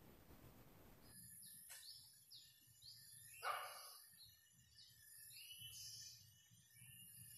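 Faint even hiss, then about a second in an abrupt change to forest birdsong: a bird repeats quick, high, falling chirps over a steady high tone. One louder call comes a little past the middle.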